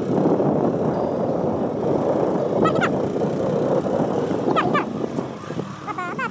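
Motorcycle riding noise: engine and wind rumbling steadily, easing off after about five seconds. Three short high-pitched sounds rise and fall over it.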